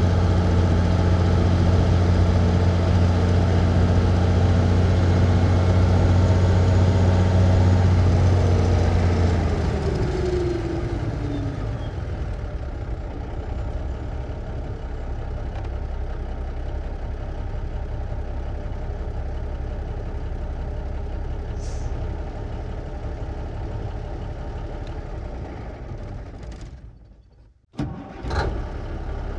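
1954 big rig truck engine heard from inside the cab, running steadily and loudly, then dropping off about ten seconds in with a falling pitch to a quieter idle. Near the end the sound fades out briefly, and a fresh engine sound starts up.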